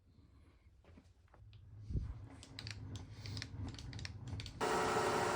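Scattered light clicks as the digital readout is zeroed. About four and a half seconds in, a steady machine hum starts suddenly: the horizontal milling machine running.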